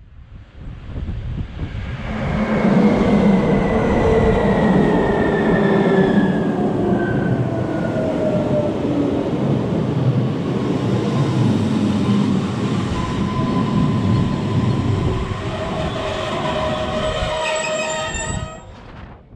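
Rhaetian Railway Bernina-line passenger train, headed by ABe 4/4 electric railcars, pulling into the station on the next track: wheels rumble on the rails while the motor whine glides down in pitch as the train slows. Near the end a high squeal sounds as it comes to a stop.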